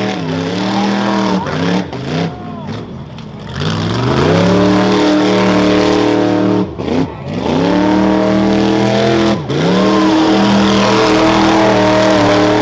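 Modified 1977 Chevy truck's engine at full throttle, revving high and holding, with the revs dropping sharply and sweeping back up several times.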